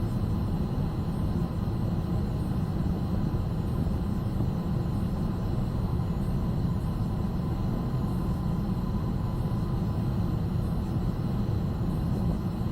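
Steady low rumble of airflow and engines inside a Boeing 757-200 freighter's flight deck on final approach, with the landing gear down and landing flaps set.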